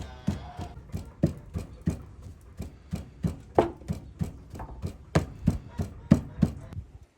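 Knife chopping food on a cutting board, sharp strokes at an uneven pace of about three a second.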